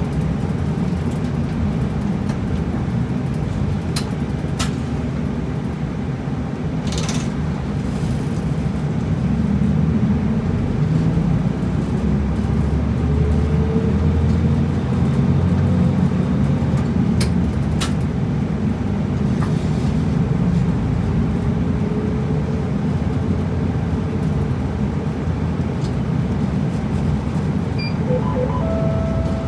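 Route bus engine and road noise heard from inside the cabin, steady throughout. The engine note climbs slowly twice as the bus pulls away, with a few sharp rattles or clicks from the cabin.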